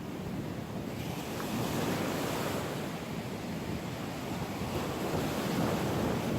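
Ocean surf breaking and washing up the beach, with wind rumbling on the microphone; the hiss of the surf swells about a second in.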